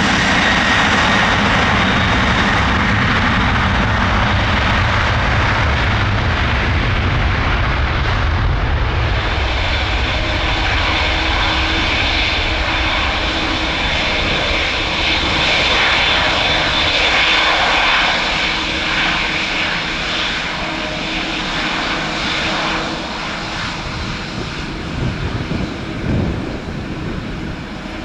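Boeing 787-8 airliner's jet engines running at taxi power: a steady jet noise with a high whine, fading somewhat over the last third.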